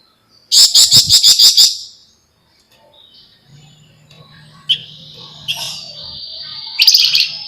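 Javan fulvetta (flamboyan) singing: a loud, rapid rattling burst of about eight high notes about half a second in, then long, high, drawn-out notes in the second half with another loud burst near the end.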